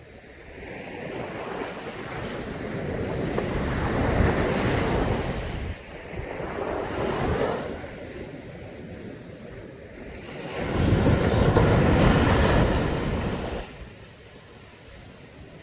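Caribbean sea waves breaking and washing up a beach: a swell builds and breaks over the first few seconds, a smaller one follows, and a louder wave comes in about ten seconds in and falls away near the end.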